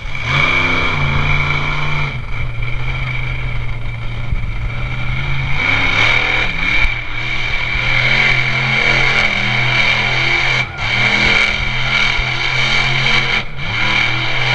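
Monster truck's big engine running hard and revving, its pitch dipping briefly and climbing back a few times, with a steady high whine over it.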